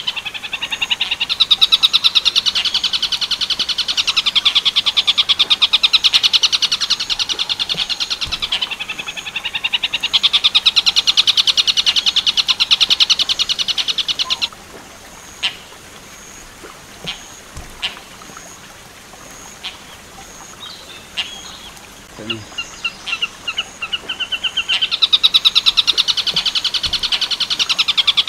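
Tengkek buto kingfisher call: a loud, fast rattle of high notes kept up for about fourteen seconds. Then a pause of about ten seconds with only a few faint chirps, and the rattling call starts again near the end.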